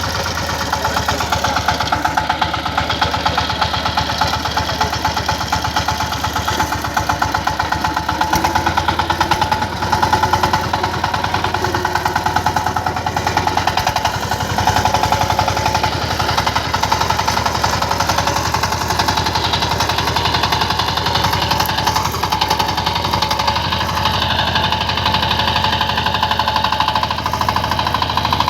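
Power tiller's single-cylinder diesel engine running steadily, with a fast, even knocking beat.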